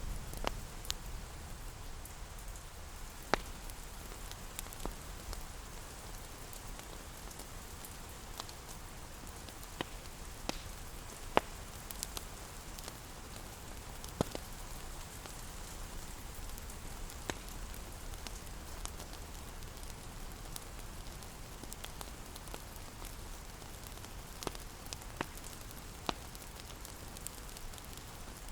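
Steady rain hiss with the irregular pops and crackles of a wood fire, single sharp snaps every few seconds.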